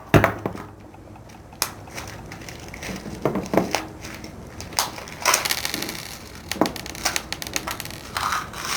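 Handling noise: irregular clicks, taps and rustles as a small eyelet tool kit and its loose metal eyelets are picked up and sorted.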